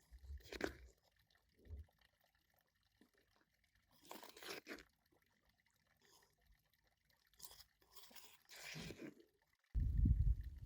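Food being handled in the kitchen: several short, separate crunching and rustling sounds. Near the end a loud, low rumble starts abruptly.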